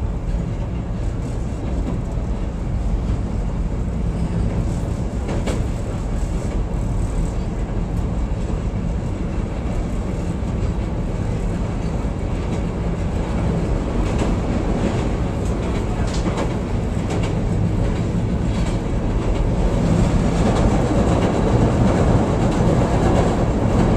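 Chicago 'L' rapid-transit train (CTA Brown Line) running on elevated track, heard from inside the car. A steady rumble of wheels and motors with occasional clacks over the rail joints grows louder near the end.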